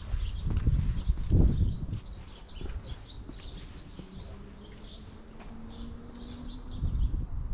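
Small birds chirping, with the calls busiest in the first half. Underneath is a low rumbling noise, strongest at the start and again near the end, and a faint steady hum through the middle.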